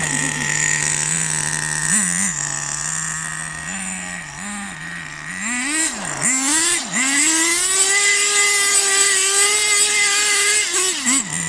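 HPI Racing Bullet 3.0 RC car's small nitro engine idling with a few short throttle blips, then revving up and down twice before holding high revs for about three seconds and dropping back to idle near the end.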